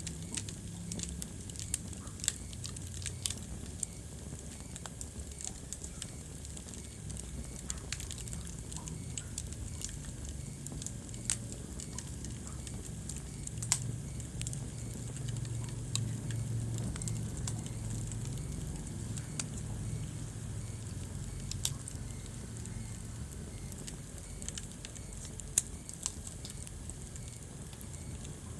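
Wood fire crackling in a fireplace: scattered sharp pops and snaps, a few louder than the rest, over a steady low rumble and hiss.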